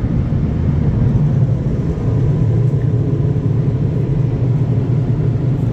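Automatic car wash air dryers blowing steadily, a loud, even, low rushing noise of the blowers at the end of the wash cycle.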